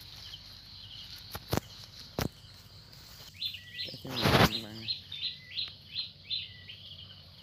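A bird calling with a run of short, high chirps, two to three a second, through the second half. Two sharp clicks come before it, and a loud brief rustling noise about four seconds in is the loudest sound.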